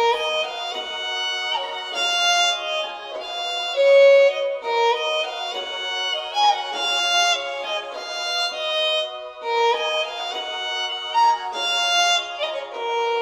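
Solo violin playing a slow melody of held notes, with no bass or drums beneath it.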